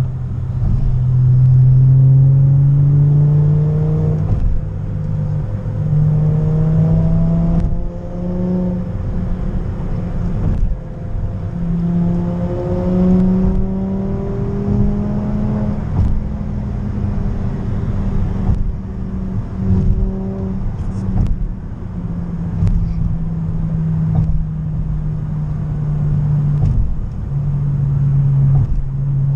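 Car engine running under load with a steady low drone; its pitch climbs slowly in stretches and drops back, as when accelerating through the gears.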